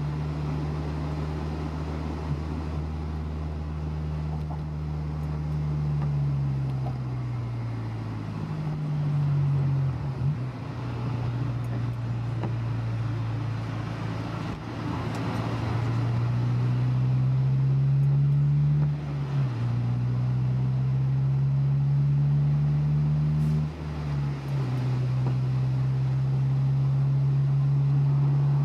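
Honda S2000's four-cylinder engine heard from inside the cabin while driving. It slows about a third of the way in, then pulls up with rising pitch through two quick gear changes near the end.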